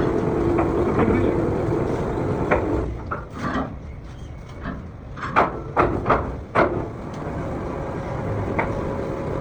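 Workshop noise: a steady machine hum that drops away about three seconds in, then about six sharp knocks over the next few seconds, then a steadier, quieter hum.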